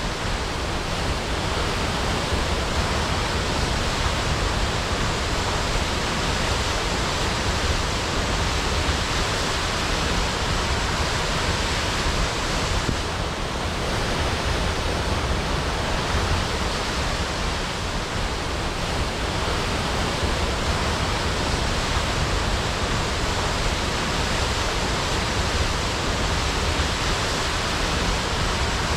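Waterfall crashing, a steady, unbroken rush of falling water.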